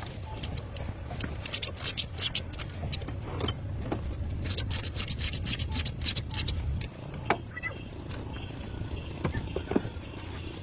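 Rapid, irregular scraping or rubbing strokes over a steady low rumble. The strokes are densest in the first two-thirds, then give way to a few sharp ticks.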